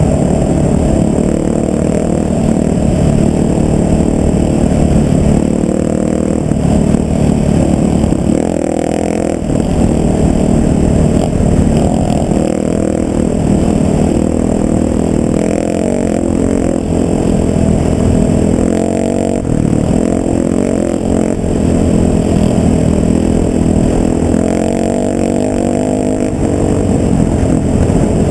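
A vehicle engine running continuously, its pitch rising and falling with changes in speed.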